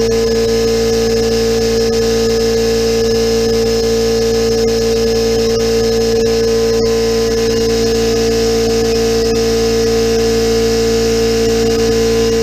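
Central Pneumatic 21-gallon, 2.5 HP oil-lubricated cast-iron air compressor running steadily under load, its pump filling the tank at around 110 PSI as it nears its 120 PSI cut-off. The running sound is a loud, even hum with a strong steady tone and no change in pitch.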